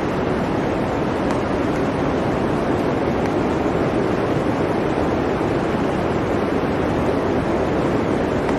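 Blizzard wind blowing as a steady, dense rush, with no gusts or breaks.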